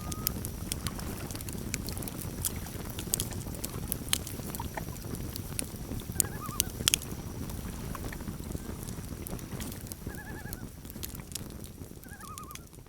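Campfire crackling with sharp pops over a low steady rumble. Common loons give short wavering tremolo calls, a couple about halfway through and twice more near the end.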